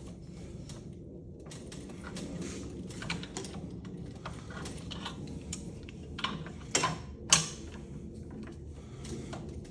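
Clicking, scraping and knocking of hand tools working on the metal parts of a ceiling fan being taken apart, with two sharp knocks close together about seven seconds in, over a low steady hum.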